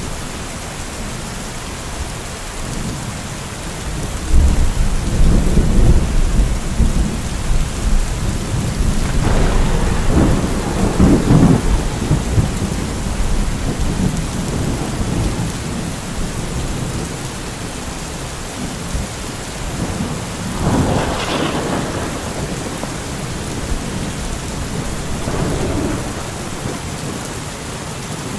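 Steady rain falling with thunder rolling through it: a long low rumble begins about four seconds in and lasts some eight seconds, and a shorter rumble follows about two-thirds of the way through.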